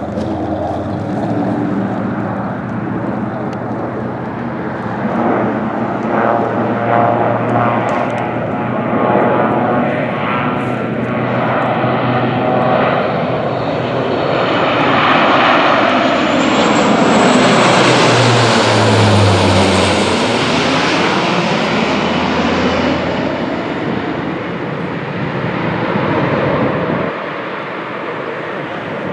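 Propeller airplane flying past: its engine sound builds to a peak about two-thirds of the way through, then its pitch falls as it passes and moves away. The sound drops suddenly near the end.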